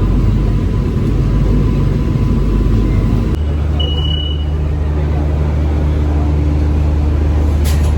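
Air-conditioned suburban electric local train running, heard as a steady loud rumble; about three seconds in the low hum deepens and holds. A brief high tone sounds near the middle and a sharp click comes near the end.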